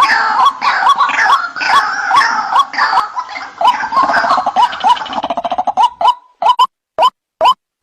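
White-breasted waterhen calls played as a lure: short rising notes repeated over and over, at first a busy overlapping chorus, giving way about six seconds in to single clean notes about twice a second.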